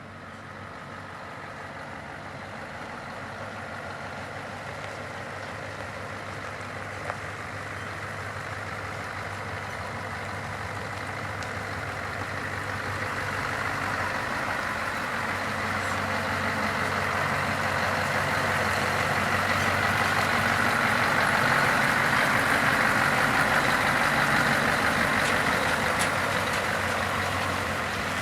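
Scania R164 truck's V8 diesel engine running at a steady idle, growing slowly louder and loudest about three quarters of the way through.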